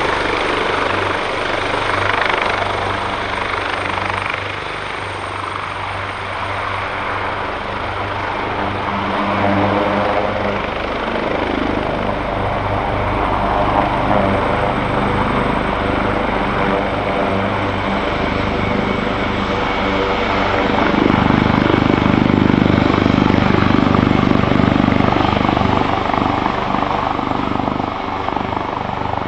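AW139 helicopter running, its twin PT6C turboshaft engines and five-bladed rotor heard together: a steady turbine whine with a thin high tone that drifts slightly lower. It grows louder and fuller for a few seconds about two-thirds of the way through.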